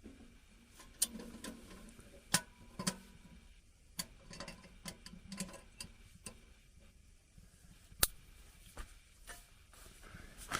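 Irregular sharp metal clicks and clinks, about a dozen, the loudest about one, two and a half and eight seconds in: small steel camping-stove parts being handled.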